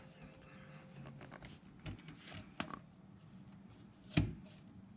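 A socket wrench being fitted to the transmission pan bolts under the car: scattered faint clicks and scrapes of metal tools, with one louder knock about four seconds in.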